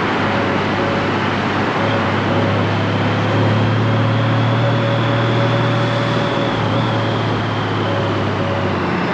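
Honda Gold Wing's flat-six engine running under steady, loud wind and road noise while riding, with a short tone repeating in the background.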